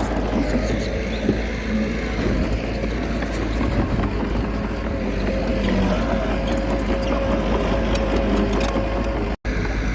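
Komatsu D21A bulldozer's diesel engine running steadily while working, with scattered light clanks. The sound cuts out for an instant near the end.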